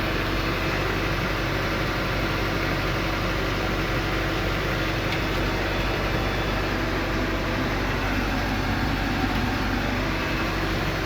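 LS XP-series tractor's diesel engine running steadily at a constant low speed, with no revving. It is stuck low because of a warning-light fault that stops the engine from gaining RPM.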